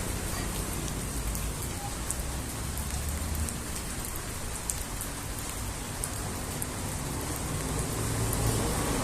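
Steady rain shower with scattered drops ticking, and a low rumble that fades out a few seconds in.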